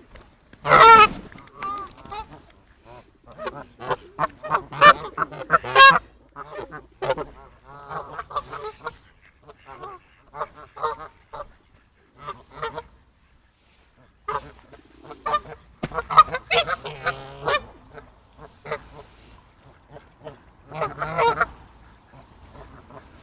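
Geese honking repeatedly in short calls, with the loudest honk about a second in and a brief lull around the middle.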